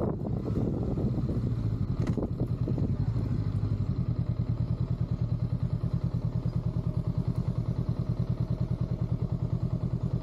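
Honda Rebel 500's parallel-twin engine heard from the rider's seat, first running with road and wind noise, then settling from about four seconds in to a steady idle with an even, pulsing beat. A single short knock comes about two seconds in.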